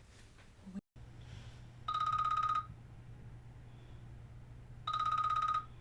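Phone ringing with an electronic trilling ring, two rings about three seconds apart.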